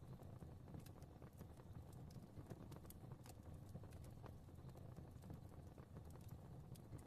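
Fireplace crackling faintly: irregular sharp pops and snaps, several a second, over a low steady rumble of flames.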